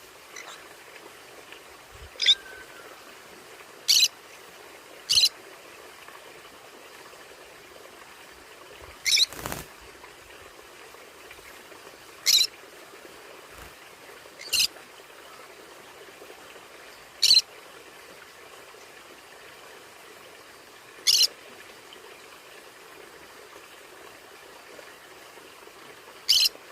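Conures giving short, sharp, high-pitched calls one at a time every few seconds, about nine in all, over a faint steady hiss.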